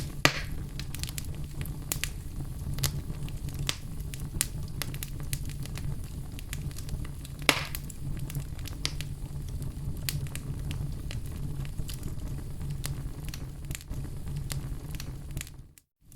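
Wood fire burning in a fireplace: a steady low rumble of flames with continual crackling and two sharper pops, one right at the start and one about halfway. The sound cuts out briefly near the end.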